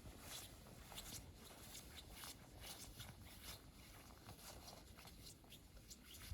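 Faint, irregular footsteps crunching in snow.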